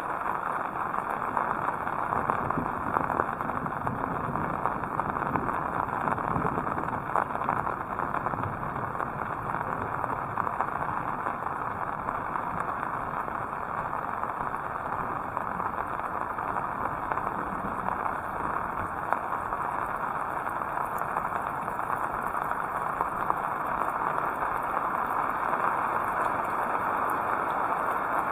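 Heavy rain falling steadily, a dense, even downpour with no let-up.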